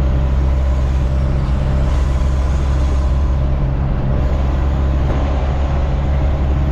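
Truck engine running steadily at constant speed, a loud low drone with road noise over it.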